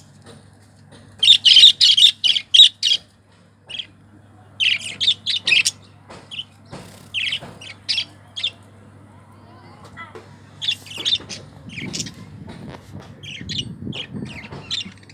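Budgerigars chirping in quick bursts of short, sharp calls, grouped in clusters with short pauses between, over a steady low hum.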